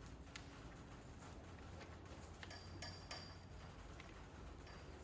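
Faint handling of masking tape and a paper template on a steel tailgate panel: scattered light ticks and rustles over a steady low hum.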